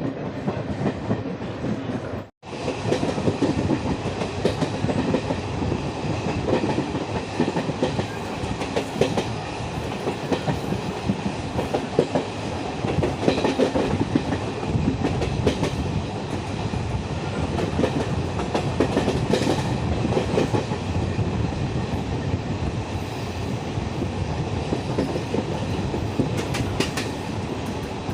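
Indian Railways express train running at speed, its wheels clattering over the rail joints in a steady clickety-clack with the rumble of the coaches. The sound drops out for a split second about two seconds in.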